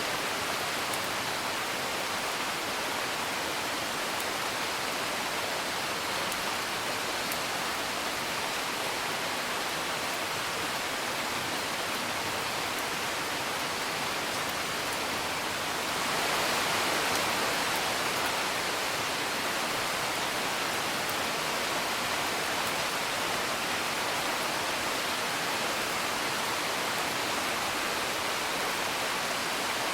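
Steady rain hiss that swells a little louder about halfway through, with a fire crackling faintly.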